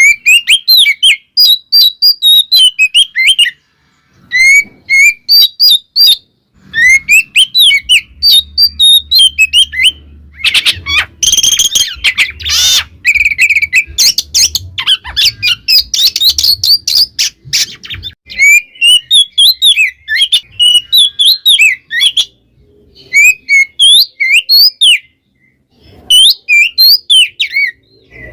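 Oriental magpie-robin singing loudly: phrases of fast, varied whistled notes broken by short pauses, with a denser, harsher, scratchy stretch in the middle.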